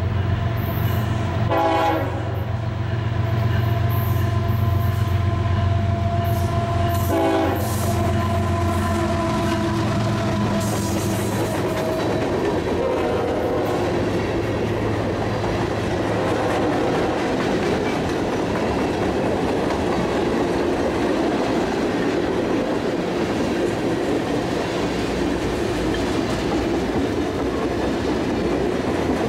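Diesel freight train passing close by: the locomotive horn sounds through roughly the first ten seconds over the steady low running of the diesel engines, then the freight cars roll past in a steady rumble of wheels on rail.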